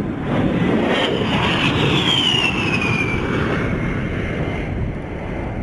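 A-10 Thunderbolt II's twin TF34 turbofan engines whining as the jet passes low, the whine falling in pitch as it goes by, over a steady low rumble.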